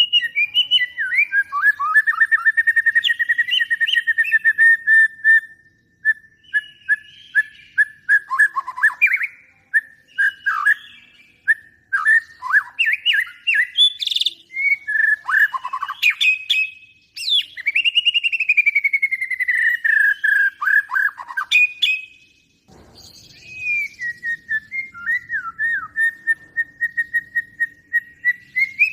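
A songbird singing a long, varied song of rapid repeated chirps, trills and whistled glides, with short pauses about six seconds in and again near twenty-two seconds.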